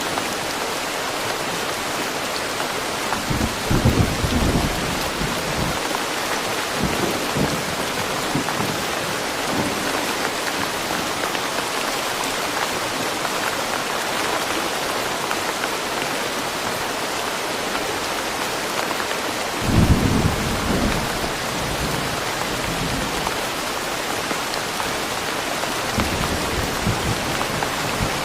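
Steady rain falling in a forest, with low rumbles of thunder rolling through it, loudest about four seconds in and again around twenty seconds in.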